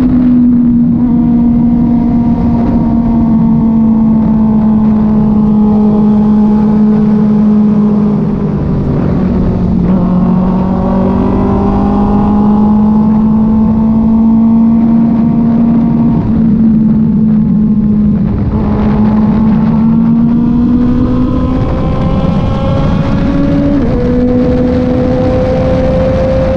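Kove 450RR single-cylinder motorcycle engine running under way. Its pitch rises and falls with the throttle, with a few sudden drops at gear changes, over steady wind and road noise.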